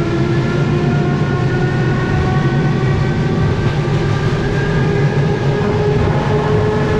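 Suburban passenger train running steadily, heard from inside the carriage: a continuous low rumble with several whining tones that slowly shift in pitch.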